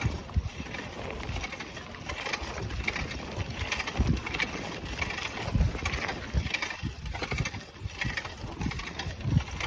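Bicycle riding along a trail: tyre and trail noise with irregular low rumbles and wind buffeting the microphone.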